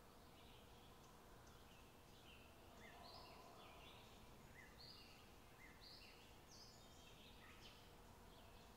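Near silence, with a small bird faintly chirping about once a second.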